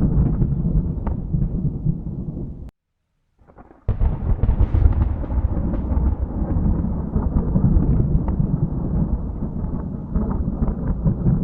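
Thunder rumbling low and continuously. It cuts off abruptly about two and a half seconds in, leaving a second of silence, then a new peal comes in with a sharp crackle and rolls on.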